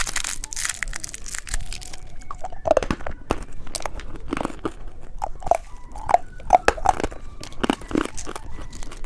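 Candy wrapper tearing and crinkling for about two seconds, then hard candy crunching and being chewed in a run of sharp crackles close to the microphone.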